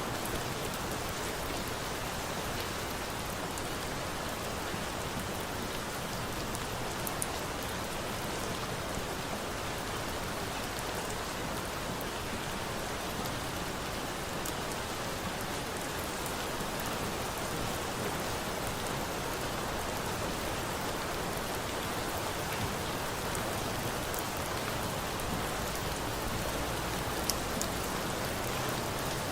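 Steady rain falling, an even hiss with no breaks, with a few faint sharp ticks.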